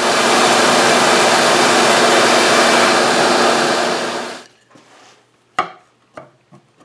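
Vacuum cleaner running steadily, sucking up plastic chips from machining, then switched off about four seconds in and winding down; a few light clicks and knocks follow.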